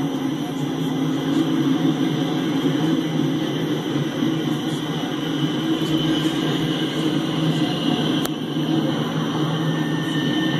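Empty coal hopper cars rolling past on the rails, a steady continuous train noise without a break.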